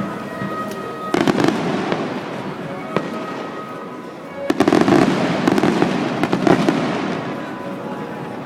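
Fireworks display: aerial shells bursting with crackling, a burst about a second in and a louder, longer volley of bursts and crackles from about four and a half seconds, over music with steady tones.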